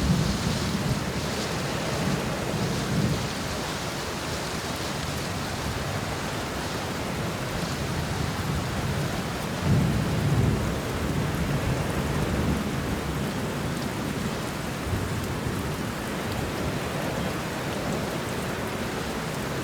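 Steady rain falling, with low rolling rumbles of thunder that swell near the start and again about halfway through.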